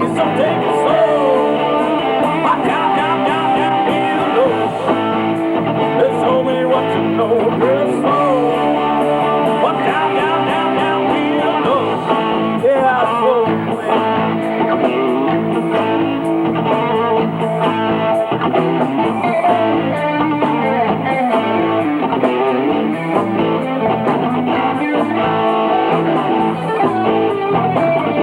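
Rock band playing a blues-rock song without vocals: an electric guitar leads with bending, sliding notes over bass and a steady cymbal beat.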